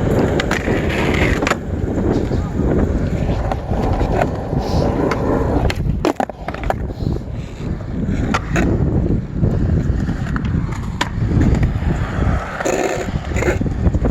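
Skateboard wheels rolling on concrete with a steady rumble, broken by several sharp clacks of the board popping and landing, most of them in the middle of the stretch.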